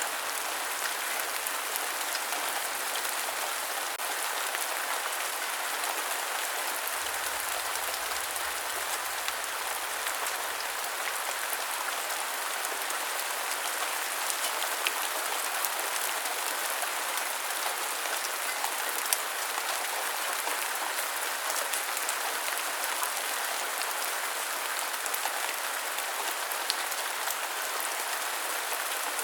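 Steady rain, an even hiss of many drops, with scattered sharper drip ticks now and then.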